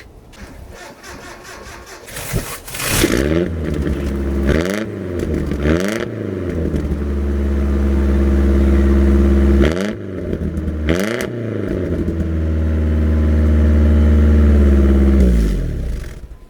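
Pickup truck engine starting about two seconds in, then revved in several quick blips and held at high revs twice, with the exhaust pipe packed with Orbeez water beads being blown out.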